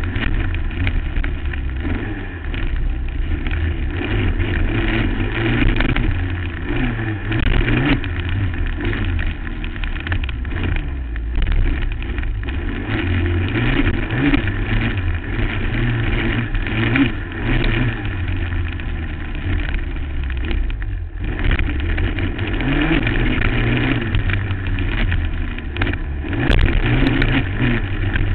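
2008 Suzuki LT-R450 quad's single-cylinder four-stroke engine running hard around a motocross track, its note rising and falling as the throttle opens and closes over bumps and jumps. It drops off briefly about three quarters of the way through, then picks up again.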